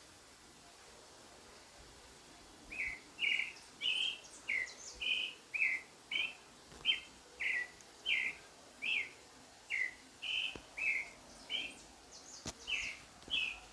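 A bird calling in a long series of short chirping notes, about two a second, starting about three seconds in, with fainter higher chirps now and then.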